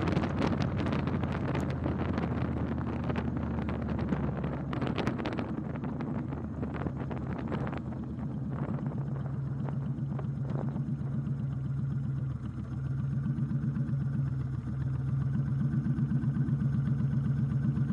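Motorcycle engine running with wind rushing over the microphone. About eight seconds in the wind noise falls away, leaving the engine's steady low pulsing, which gets a little louder near the end.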